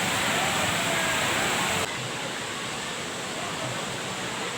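Steady rush of a waterfall, with faint distant voices; the sound drops suddenly in level about two seconds in.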